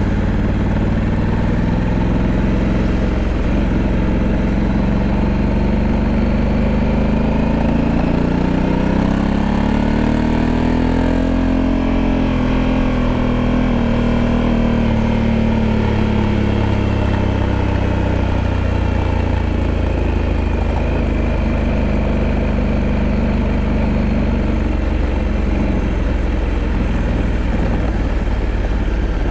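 Honda Africa Twin 1100's parallel-twin engine running under way. Its pitch climbs slowly for about twelve seconds, then eases back down, over a steady low rumble.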